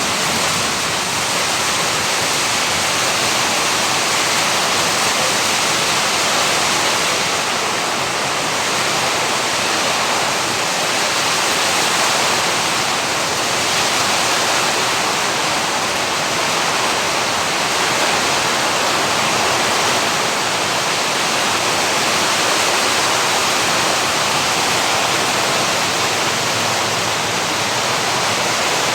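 Heavy rain pouring down with stormy wind: a dense, steady hiss.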